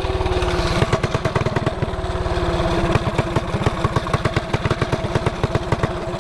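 Mini bike's small single-cylinder engine running at a steady low speed, its exhaust pulsing in an even, rapid beat.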